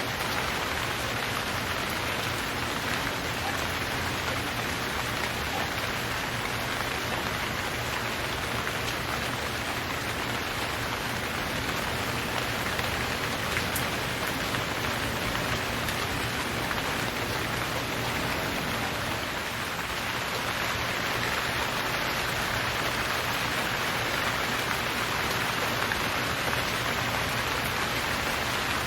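Steady heavy rain falling, a dense even hiss of drops with no pauses.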